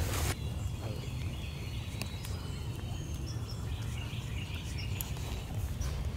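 Faint, short bird chirps over a steady low rumble, with scattered small clicks and a brief rush of noise at the very start.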